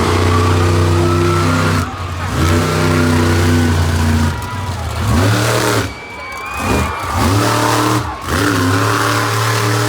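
Monster truck engine revving hard in repeated pulls, each held a second or two, with the throttle chopping off and snapping back several times during the run.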